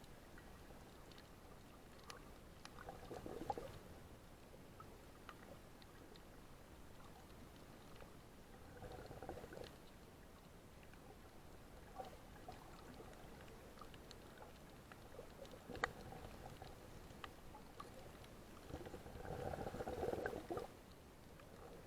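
Faint, muffled water sounds: three short gurgling swells, the last and longest near the end, over a low background with scattered light clicks.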